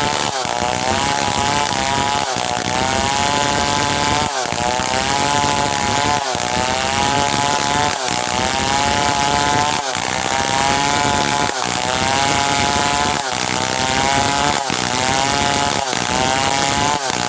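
Stihl 070 chainsaw, a big two-stroke, running hard while cutting merbau timber. About every two seconds the engine pitch dips briefly and climbs back up.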